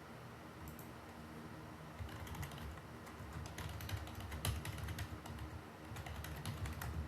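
Typing on a computer keyboard: a quick, uneven run of key clicks that starts about two seconds in and stops just before the end.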